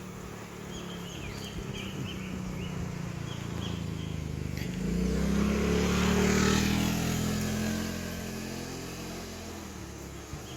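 A motor vehicle passes by: its engine note and tyre noise build up, are loudest a little past the middle, then fade away.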